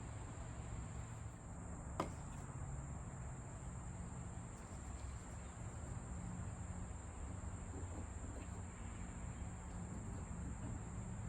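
Crickets chirping in a steady, high-pitched chorus, with one sharp click about two seconds in.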